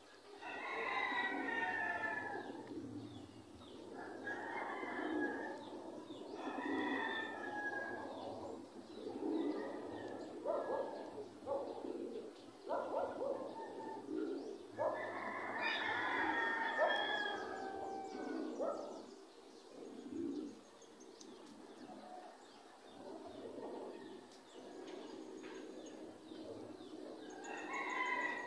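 Birds calling in repeated bursts of several seconds with short pauses, some calls gliding down in pitch; the calling is quieter in the second half.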